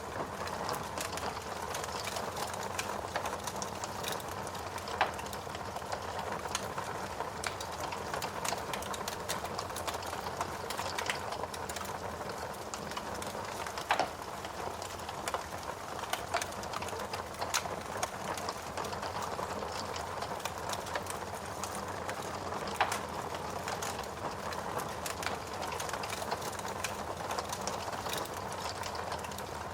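Logs burning in a fireplace: a steady hiss with frequent irregular crackles and pops, a few of them sharper and louder.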